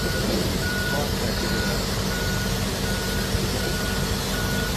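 Truck backup alarm beeping: a single high tone repeating evenly about once every three-quarters of a second, over the steady rumble of a running truck engine and road noise.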